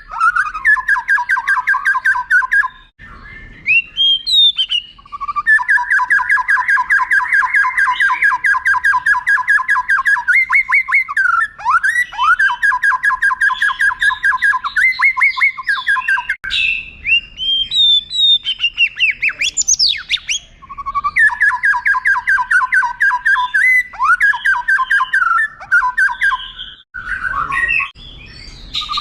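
White-rumped shama (murai batu) singing: long, rapid rolls of repeated notes, each lasting several seconds, broken by short rising and falling whistles.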